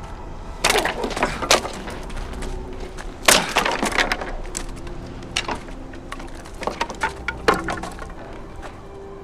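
A run of sharp cracks and knocks, loudest about a second in and again about three seconds in, over a faint, low film score.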